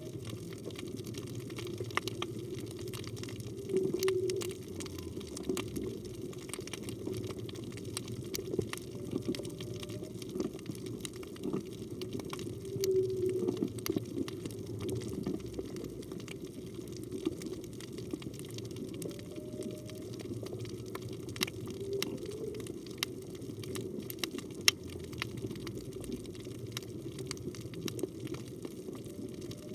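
Humpback whale song heard underwater: short low calls, some sliding upward in pitch, recurring every few seconds. Under them runs a steady rush of water, dotted with sharp clicks.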